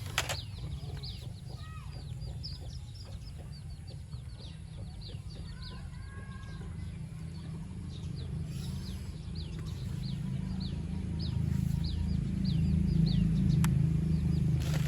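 Birds chirping in quick, short downward chirps, several a second, over a steady low rumble that grows louder in the last few seconds.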